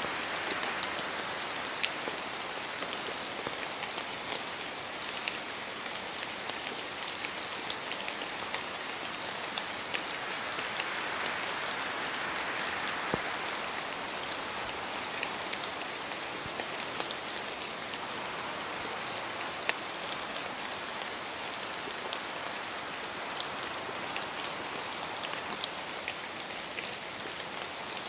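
Steady rain falling, with many small drops pattering and ticking on surfaces.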